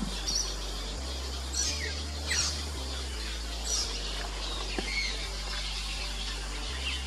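Fairy martins calling at their mud-nest colony: scattered short, high chirps, several sliding down in pitch, about half a dozen over the stretch.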